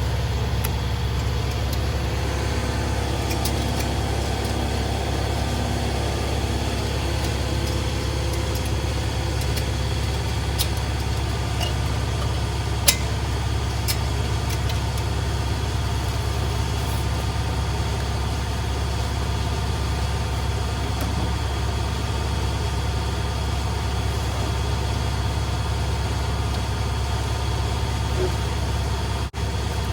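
Steady low drone of running shop machinery, with a few sharp clicks: about a third of the way in and again near the end.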